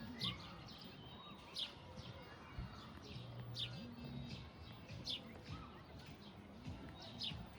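Small birds chirping outdoors: short, sharp, repeated calls every second or so over a faint low background murmur.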